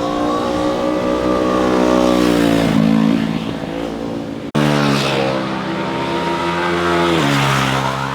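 Motorcycle engines heard from the roadside as the bikes ride through a bend. The first engine note rises, then falls away. After a sudden cut about four and a half seconds in, a second motorcycle's engine comes in and drops in pitch near the end.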